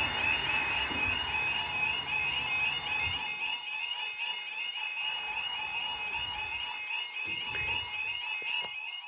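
Automatic half-barrier level crossing alarm sounding a rapid, steadily repeating warble of two alternating tones, stuck in its stage-two sequence. A passing road vehicle's rumble fades out about three seconds in.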